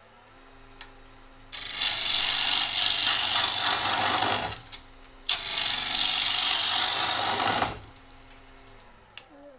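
A bowl gouge cutting a spinning cherry blank on a lathe, flattening the face to remove a high spot: two loud cutting passes of about three seconds and two seconds. Between and around the passes the lathe's motor hum and a faint high whine continue.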